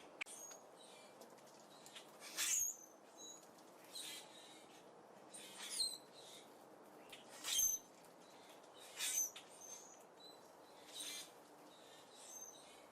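Small songbirds chirping, short sharp high calls repeated about every one and a half to two seconds over a faint steady background hiss.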